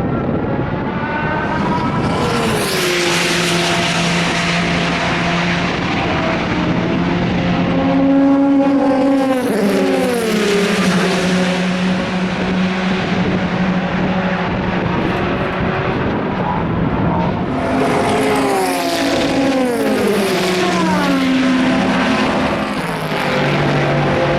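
Several endurance race cars running past at speed, their engine notes overlapping, with pitch falling in stepped glides twice as cars go by or change down.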